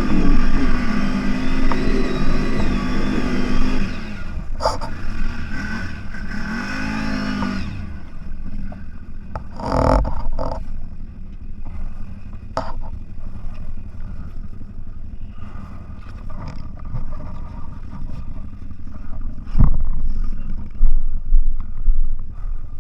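Off-road vehicle engine revving hard for several seconds, then running lower amid clattering and knocks, with two heavy thumps, one about ten seconds in and one near the end.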